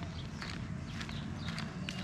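Footsteps on a hard surface at an even walking pace, about two to three steps a second, over a steady low hum.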